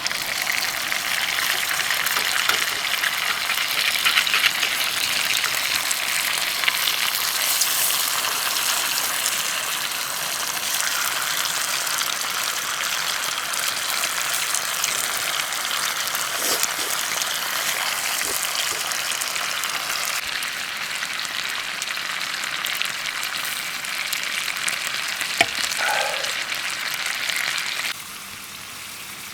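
Food frying with a steady, dense sizzle. It drops off suddenly near the end to a quieter hiss.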